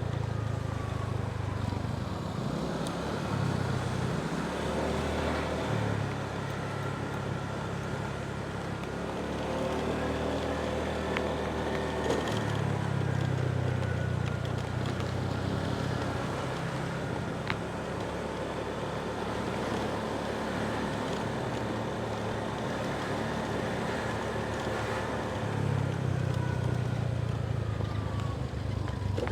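Motorbike engine running under way, its low note swelling and easing several times as the throttle opens and closes.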